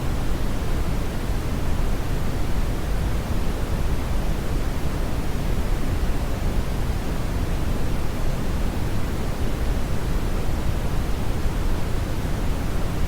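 Steady brown noise: a constant, deep rushing hiss, heaviest in the bass and dull at the top, with no changes or events.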